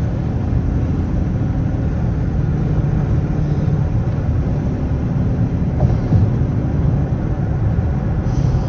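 Straight-piped Dodge Charger R/T's HEMI V8 exhaust, a steady low rumble as the car drives at an even pace, with no hard revving.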